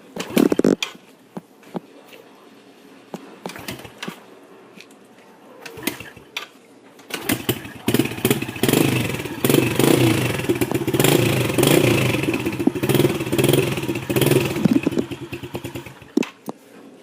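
A 110cc dirt bike engine being kick-started with its battery dead. A few knocks come from the start attempts, then the engine catches about seven seconds in, runs loudly, and shuts off near the end.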